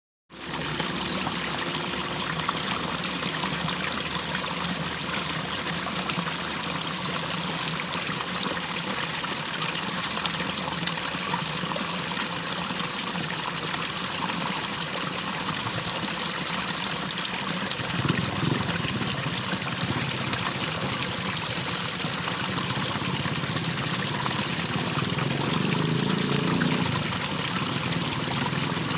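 Water running steadily in a drainage ditch, with a low rumble joining about 18 seconds in and swelling near the end.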